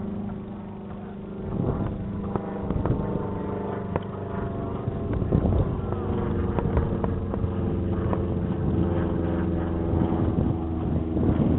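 An engine running steadily, with scattered knocks and clatter from about a second and a half in.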